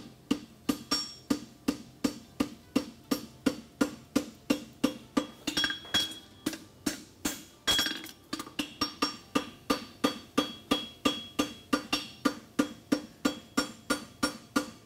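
Blacksmith's hammer striking hot steel bar stock on an anvil in a steady rhythm of about three blows a second, each with a brief metallic ring, as a horseshoe branch is forged out.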